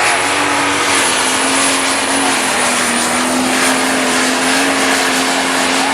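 Turbocharged diesel engine of a super stock pulling tractor running at full throttle under load while pulling the weight sled. The engine note holds steady with a slight dip midway, under a steady high turbo whistle.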